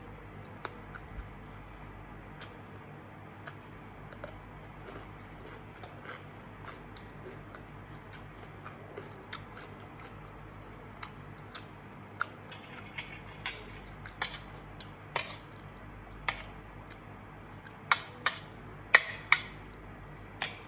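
A person eating close to the microphone: chewing, with scattered short sharp crunches and clicks, several louder ones in the last few seconds.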